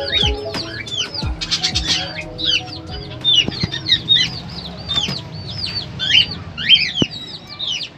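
A flock of birds chirping busily: many short, quick calls that sweep down in pitch, overlapping throughout, with faint background music beneath.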